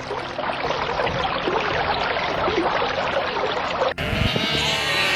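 Sheep bleating. A dense, noisy din for the first four seconds, then an abrupt change to clearer, pitched bleats near the end.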